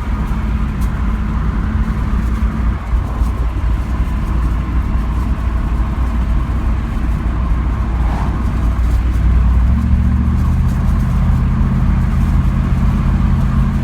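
1997 Camaro Z28's rebuilt LT1 V8 rumbling at a steady cruise, heard from inside the car. About ten seconds in, the engine note changes and settles at a new steady pitch.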